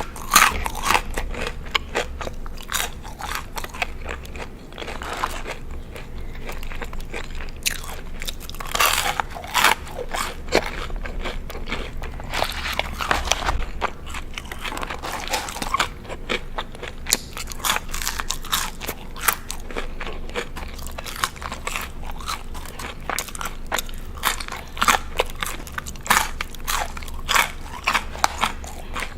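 Close-miked biting, crunching and chewing of crispy boneless chicken wings: a dense, irregular run of sharp crunches and wet chewing clicks.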